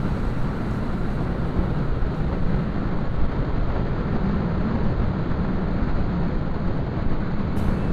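Motorcycle riding at road speed: a steady rush of wind and engine and road noise.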